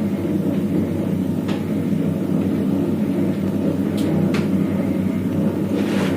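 Microwave oven humming steadily while it preheats in convection mode, with a few light clicks and a brief clatter near the end from utensils being handled.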